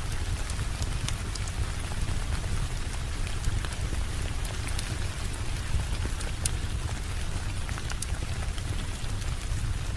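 Steady rain falling, an even hiss over a deep low rumble, with scattered sharp clicks throughout.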